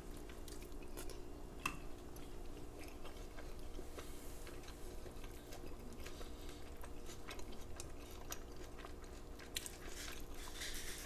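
A person chewing a mouthful of birria taco: faint scattered wet mouth clicks over a steady low hum.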